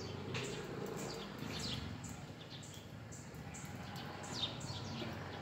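Small birds chirping, a run of short falling chirps repeated throughout, over a steady low rumble.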